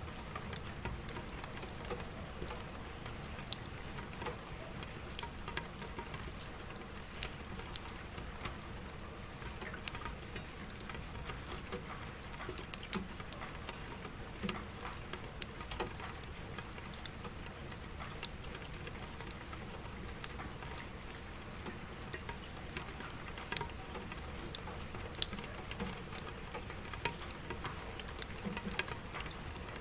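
Steady rain pattering on a surface, with individual drops ticking sharply at irregular moments.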